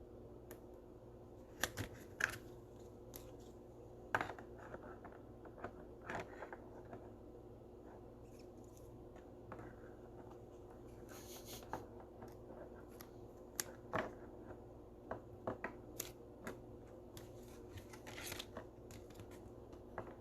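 Baseball trading cards being handled and sorted on a table: scattered light clicks, taps and brief rustles at irregular intervals, over a steady low hum.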